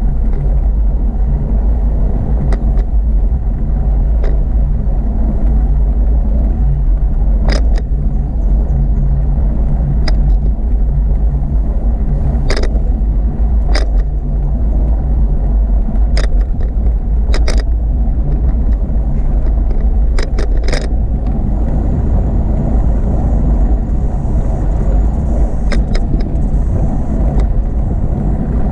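Steady low rumble of wind and road noise during a bicycle ride, with a faint hum that fades about two-thirds of the way through. Sharp clicks come every few seconds, about eight in all.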